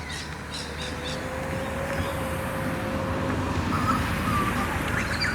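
Birds calling in short notes, with a steady low hum and rumble growing louder through the middle, like a passing vehicle.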